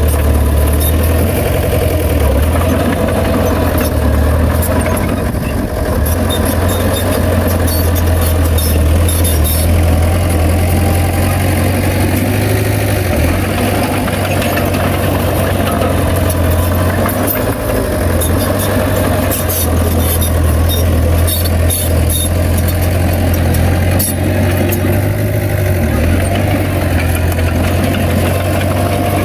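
Heavy diesel engine of earthmoving machinery running steadily with a deep, even rumble, with faint scattered high clicks over it.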